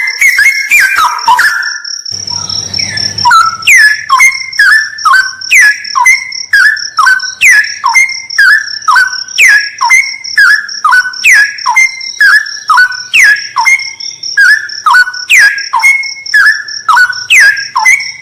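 Straw-headed bulbul (cucak rawa) singing a long run of loud falling whistled notes, about two a second, after a short pause near the start. A steady high insect trill runs underneath.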